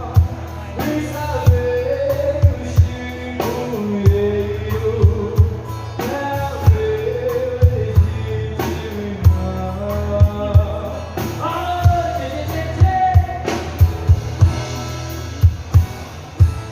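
Live sertanejo band music: a singing melody line gliding over bass and a kick-drum beat.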